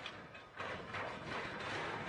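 Train running past on the rails, its wheels clattering. The noise comes in about half a second in and then holds steady.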